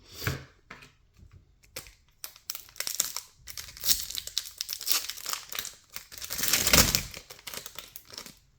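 Foil wrapper of a 2024 Topps Series 2 baseball card pack being torn open and crinkled in the hands, in irregular bursts of crackling, loudest about two seconds before the end.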